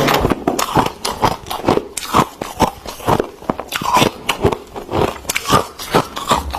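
Freezer frost being bitten and chewed, a quick irregular run of crisp crunches, several a second.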